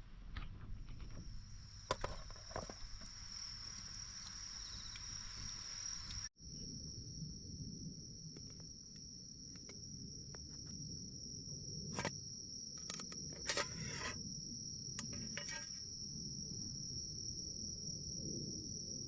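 Insects trilling in one steady, unbroken high-pitched drone, with a few scattered clicks and knocks. The sound drops out abruptly for an instant about six seconds in.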